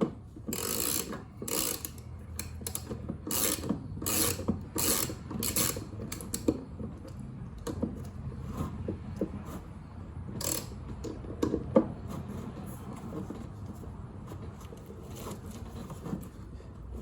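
Hand socket ratchet tightening a lawnmower blade bolt: repeated clicking strokes, about two a second, for the first several seconds, then a few scattered clicks and knocks.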